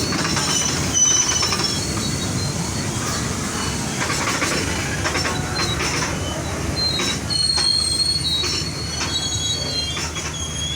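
A train moving through a railway station, its steel wheels squealing on the rails in thin high tones that come and go over a steady low rumble.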